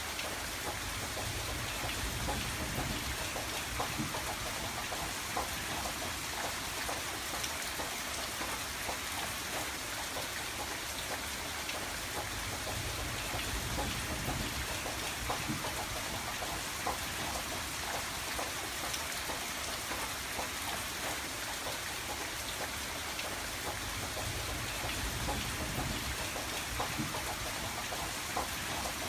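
Steady rain on a window pane: a dense, even hiss with many small drops ticking. Under it a low rumble swells and fades a few times.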